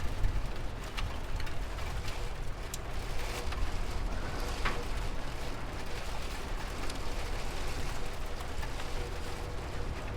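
Steady rain falling, with scattered sharp drop ticks over a constant low rumble.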